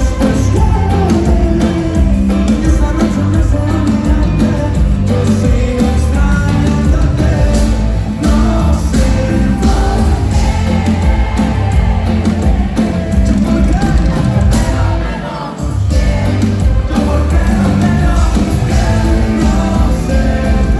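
Live band playing loud pop-rock music with electric guitar and a steady beat, with singing over it; the music dips briefly about fifteen seconds in.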